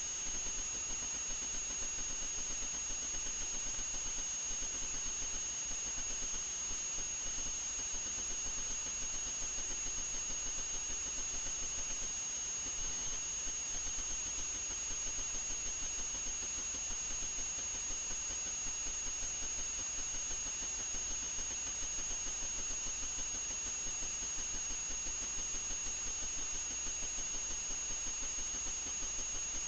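Steady electronic hiss with two constant high-pitched whines that never change in pitch or level.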